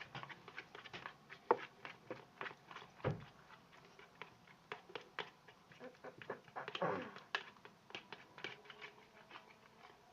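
Sticky homemade slime being kneaded and pulled by hand, giving a dense run of small wet clicks and squelches, with a louder squish about seven seconds in. The slime is too runny and sticky.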